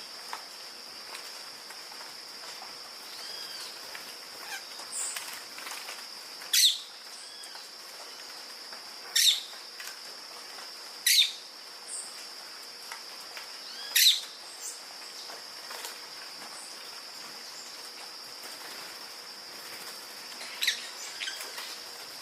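Pet parrots giving short, sharp calls that sweep downward in pitch, five loud ones spaced a few seconds apart, over a steady high-pitched whine.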